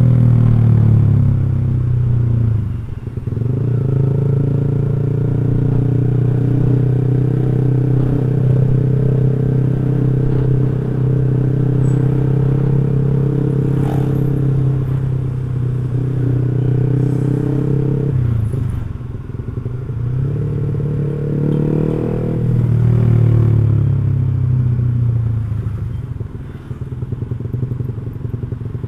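Motorcycle fitted with an X1 Speed aftermarket racing exhaust, ridden on the road: the exhaust note falls in pitch near the start, holds steady for about fifteen seconds, drops, rises again briefly and then fades near the end.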